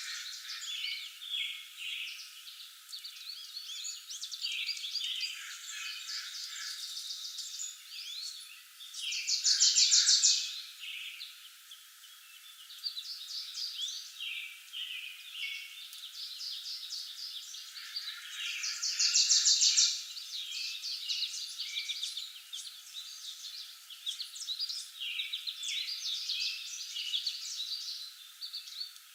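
Several songbirds singing and calling in a forest, a steady mix of short chirps and warbling phrases. Twice, about nine seconds in and again near nineteen seconds, a loud, fast buzzy trill stands out above the rest. The sound is thin, with no low sounds at all.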